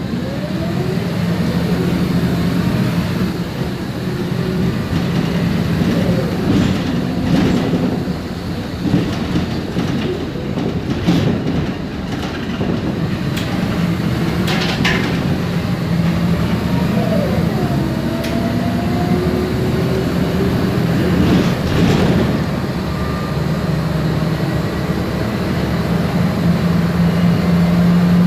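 MAN Lion's Classic CNG city bus heard from inside while driving. Its MAN E2876 engine gives a steady low drone, and the ZF Ecomat six-speed automatic gearbox adds a whine that rises and falls in pitch with speed. Occasional rattles and knocks come from the body.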